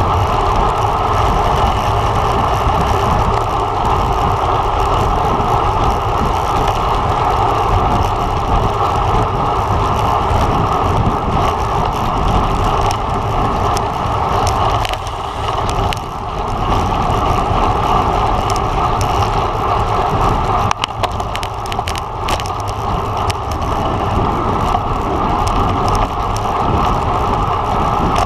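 Steady rushing wind and road noise from a road bike ridden at racing speed, with wind buffeting the microphone. A few sharp clicks come through in the second half.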